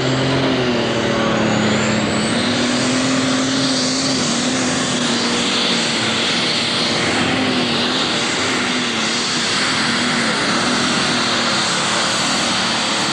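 Super stock pulling tractor's turbocharged diesel engine running hard at high revs under load down the track, its pitch wavering slightly, with a rising whine high up in the first couple of seconds.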